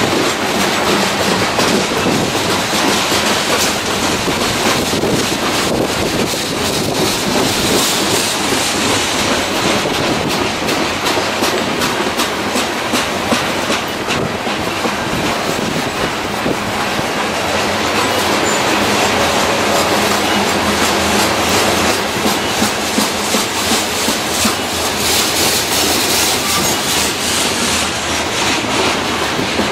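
Loaded coal hopper cars of a long, slow freight train rolling past: a steady rumble and rattle of steel wheels on rail, with clickety-clack from wheels crossing rail joints, coming as a plain regular beat in the last several seconds.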